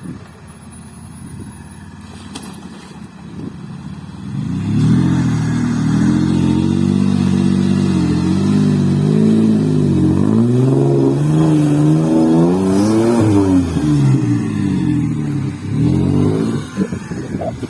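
Off-road vehicle engine revving hard, its pitch rising and falling again and again. It comes in loudly about four seconds in and eases off near the end.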